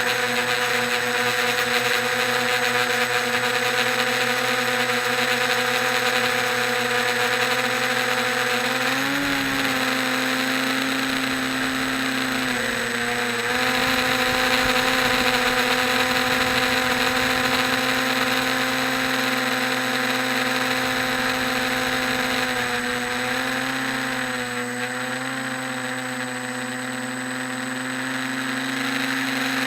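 Electric motors and propellers of a 650-size quadcopter humming steadily in flight over a broad rushing hiss. The pitch dips and recovers briefly a few times as the throttle changes.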